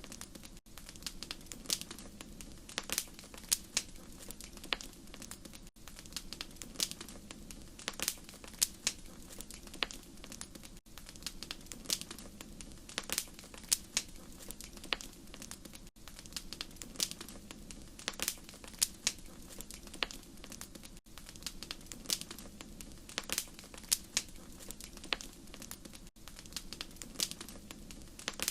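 Wood fire crackling: irregular sharp pops and snaps over a low, steady rumble of the burning fire. A brief dropout about every five seconds suggests a short recording looped.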